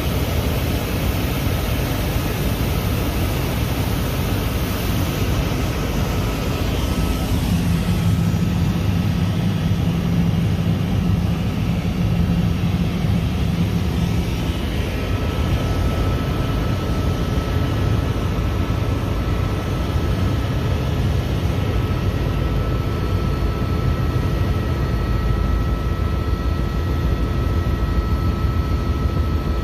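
Helicopter in flight: a steady drone of engine and rotor noise with a few faint steady whining tones over it.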